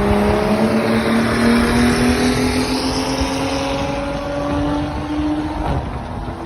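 BMW 535i's turbocharged N55 straight-six accelerating: its pitch climbs steadily for about five seconds, then drops as it shifts up.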